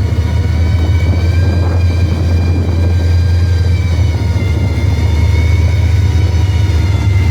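Car engine idling steadily and close by, loud, with a constant low hum and an even pitch that drifts only slightly.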